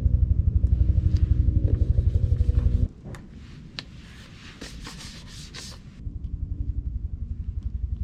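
An engine idling with an even, rapid pulse. It cuts off abruptly about three seconds in, leaving a few faint clicks and rustling, then starts up again more quietly about three seconds later.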